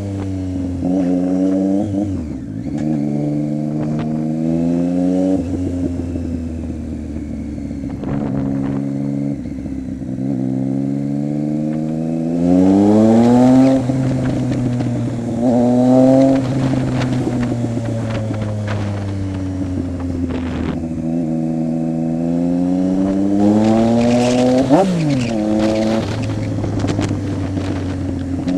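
Triumph Street Triple 675's three-cylinder engine running through an aftermarket Coffman exhaust with the baffle removed. Its pitch repeatedly climbs under acceleration and drops, as when ridden through the gears, with a sharp quick rev about three-quarters of the way through.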